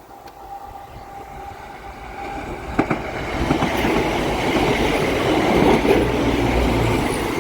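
Two coupled Class 170 Turbostar diesel multiple units passing over a level crossing. The rumble of engines and wheels on rail builds from about two seconds in and holds loud and steady through the second half. There is a single sharp click just before three seconds in.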